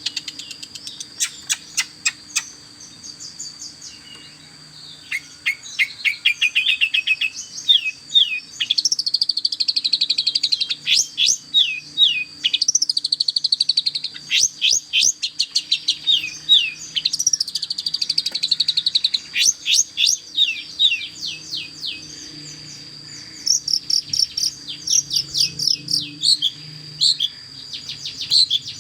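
Long-tailed shrike singing a fast, varied medley: rapid runs of repeated sharp chirps and down-slurred whistles in bursts, with quieter gaps, over a steady high-pitched tone.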